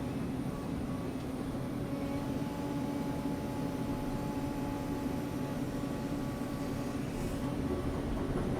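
Sany excavator's diesel engine running with a steady, even drone and a low hum.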